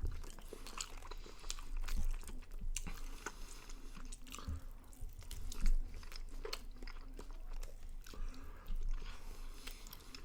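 A person chewing and biting into sauced smoked chicken wings, with irregular wet clicks and small crunches as the meat is stripped off the bones. One louder knock comes a little past halfway.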